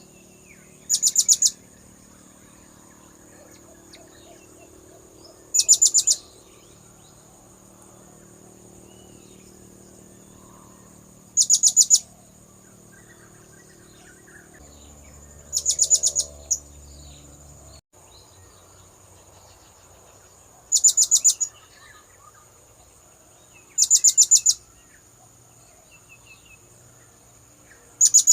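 Blue-crowned hanging parrot (serindit) calling: seven short bursts of rapid, shrill, high-pitched notes, repeated every four to six seconds, over a steady high whine.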